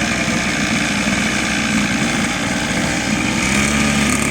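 Small 110cc mini motocross bike engines running, with a steadier engine note coming in near the end.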